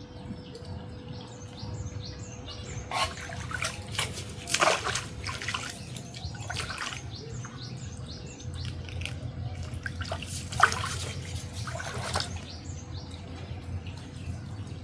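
Small birds chirping in a quick repeating pattern over a steady low background. Two stretches of louder knocks and rustling noise come about a third of the way in and again past two-thirds.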